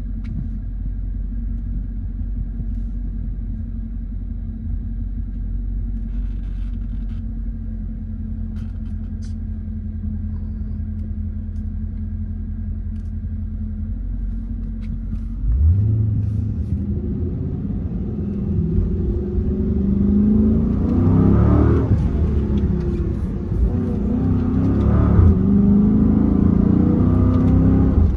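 Dodge Charger SRT 392's 6.4-litre HEMI V8, heard from inside the cabin, running steadily at low revs with a deep rumble. About halfway through it suddenly gets louder as the car accelerates, the engine note climbing and then dropping back twice at the upshifts.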